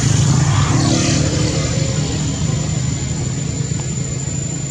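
A motor vehicle's engine running as it passes, its sound slowly fading away.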